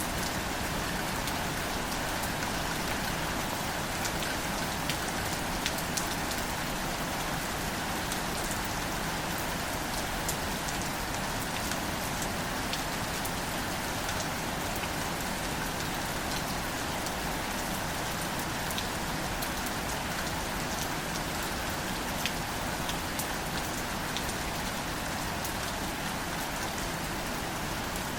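Steady rain falling on plants, an even hiss of rainfall with individual drops ticking through it.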